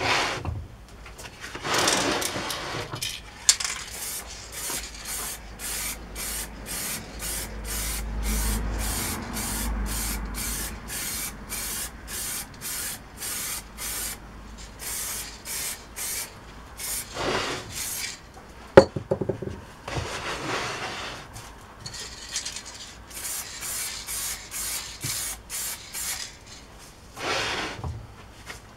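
Aerosol spray paint can spraying the motor in quick short bursts, about two a second, with a few longer hisses in between. A single sharp click comes about two-thirds of the way through.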